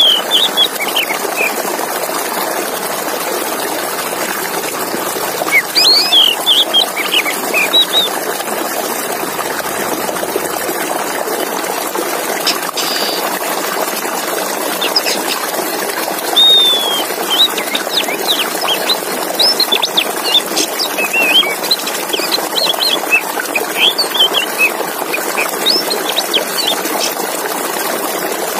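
Male oriental magpie-robin (kacer) singing: short whistled, sweeping notes in scattered bursts, over a steady rush of running water.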